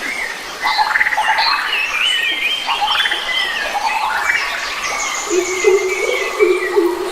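Several wild forest birds calling and singing over one another in a dense chorus of chirps, trills and whistles. From about five seconds in, a lower call joins, repeated in short notes.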